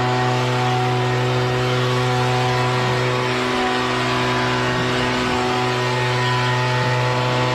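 An engine running at a steady high speed, a constant even hum.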